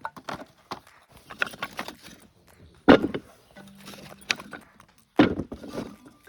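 A run of small knocks and clicks, with two loud thumps about two seconds apart, one near the middle and one near the end.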